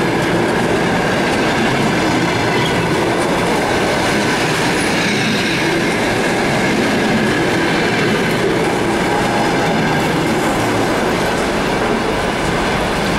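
Passenger coaches of a departing train rolling past at close range: a steady rumble of steel wheels on the rails, clattering over the rail joints, with a faint squeal from the wheels.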